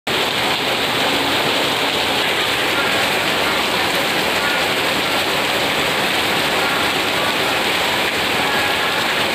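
Heavy rain pouring down, a loud, steady, even rush of downpour with no let-up.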